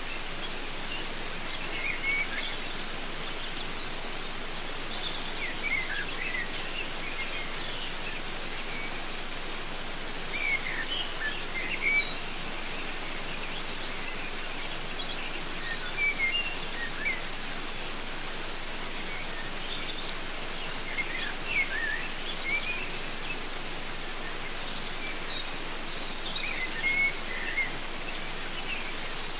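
Steady rushing of a waterfall, with birds calling over it in short bursts of quick, high chirps about every five seconds.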